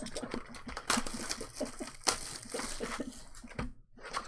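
Crinkling and quick clicks of trading cards and pack wrappers being handled and flipped through.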